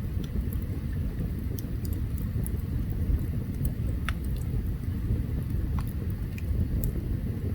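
Open campfire burning: a steady low rumble with scattered sharp crackles and pops, one more distinct pop about four seconds in.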